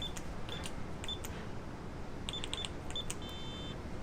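Electronic keypad door lock being punched: a series of short, high beeps, one for each button press, bunched together toward the middle, then a longer multi-tone beep from the lock near the end.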